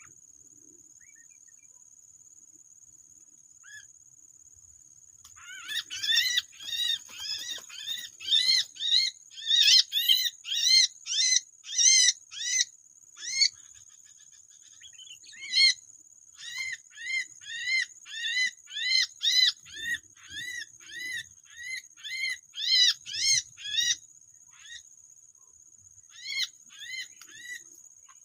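A bird calling in long runs of short, arched chirps, about two or three a second, breaking off briefly partway through and thinning to a few single chirps near the end.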